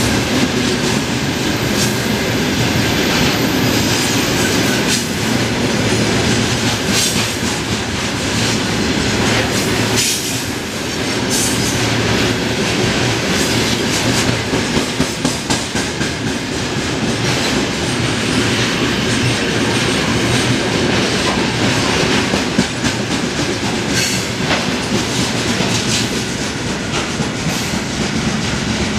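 Freight train wagons rolling past at speed: a steady rumble of steel wheels on rail with repeated clickety-clack as the wheels cross the rail joints.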